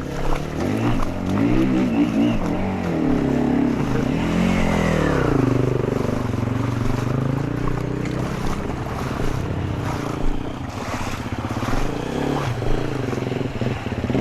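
Dirt bike engines revving, the pitch climbing and dropping several times in the first few seconds, then running more steadily under a rushing noise.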